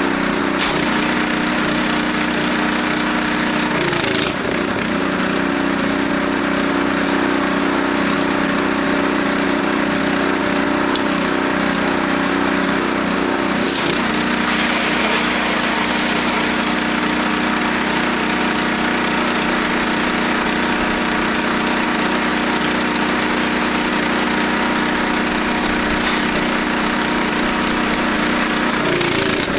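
Gas-engine pressure washer running steadily under load, its engine note over the hiss of the high-pressure spray while soap and bleach are drawn in through a downstream injector. The engine note shifts briefly about four and fourteen seconds in.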